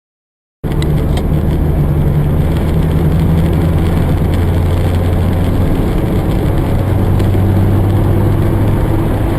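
A motor vehicle's engine and road noise start abruptly about half a second in, then run on as a steady low drone with a noisy rush.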